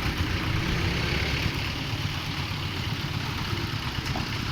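Vehicle engines running with a steady low rumble and no clear beat.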